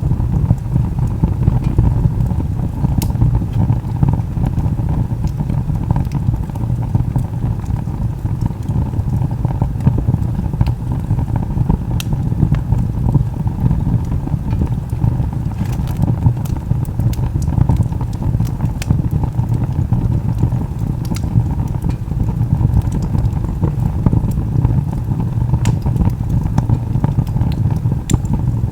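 Wood log fire burning, with a steady low rumble and scattered sharp crackles and pops from the burning wood.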